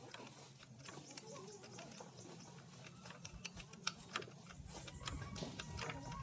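Irregular light clicks and taps, scattered and at no steady rhythm; from about four and a half seconds in, a low rumble joins them.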